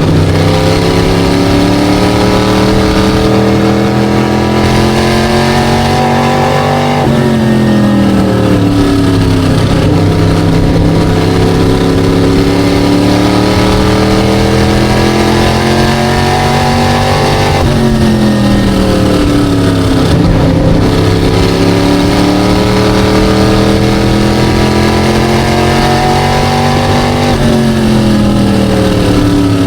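SK Light modified race car engine running hard around an oval. Its pitch climbs steadily and then drops sharply three times, about every ten seconds, as the driver lifts off the throttle into the turns and gets back on it.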